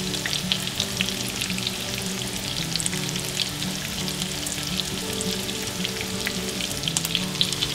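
Breaded pork schnitzels shallow-frying in hot olive oil in a frying pan: a steady sizzle with many small crackling pops as the first side browns.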